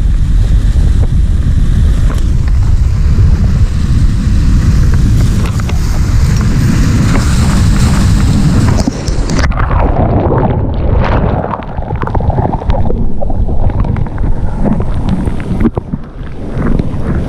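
Strong wind buffeting the microphone over the sea. About halfway through, a wave washes over and the sound turns suddenly muffled, with water rushing and gurgling.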